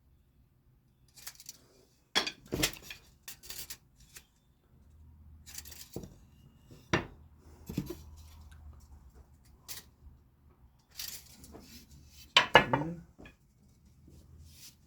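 Scattered knocks and clatters of cut fence-picket pieces being picked up and set down on a workbench, with the loudest knocks at about two and a half, seven and twelve and a half seconds in.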